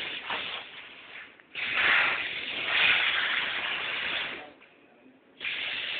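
A steady, noisy hiss that starts abruptly about one and a half seconds in, dies away for about a second near the end, then cuts back in.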